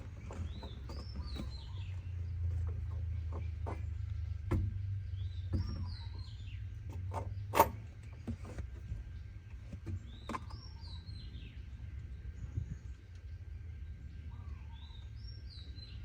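A bird repeating a short whistled phrase of rising and falling notes about every five seconds. Scattered light clicks and knocks run underneath, with one sharp louder click about seven and a half seconds in, over a steady low rumble.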